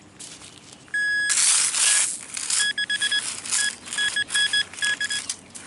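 Metal detecting gear beeping on a buried target: one steady electronic beep about a second in, then runs of short, quick beeps at the same pitch. Loud scraping and crunching of digging in soil comes between the beeps.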